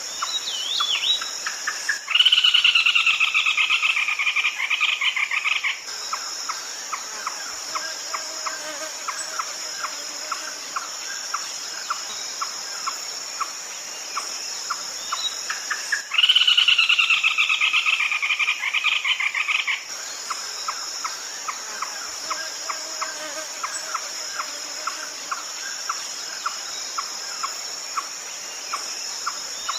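Red-legged crake calls: a loud, rapid trilled bout lasting about four seconds, falling slightly in pitch, comes a couple of seconds in and again about halfway. Between the bouts runs a steady series of softer sharp notes, two or three a second, over a constant high insect hum.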